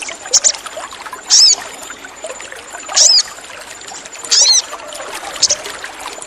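Sogon birds calling: short, high chirps and three louder, downward-sweeping calls about a second and a half apart, over a steady trickle of running water.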